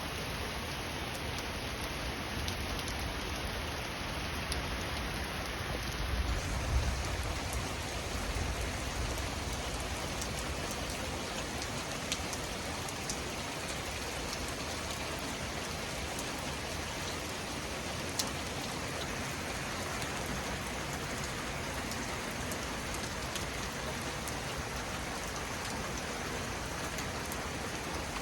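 Torrential rain falling as a steady, even hiss, with a few sharp drip ticks. A brief low rumble comes about six seconds in.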